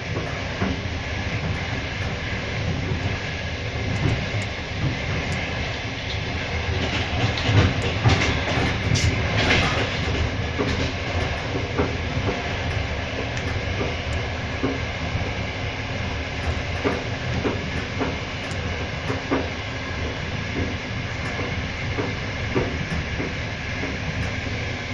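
Express passenger train running, heard from inside the carriage: a steady rumble of wheels on rails with scattered sharp clicks from the track. The sound grows louder and hissier for a couple of seconds about eight seconds in.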